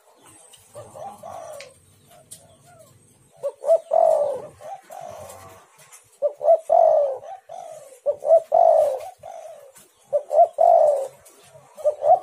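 Spotted dove (tekukur) cooing in repeated phrases about every two seconds. Each phrase is a few short notes running into a longer coo that falls in pitch.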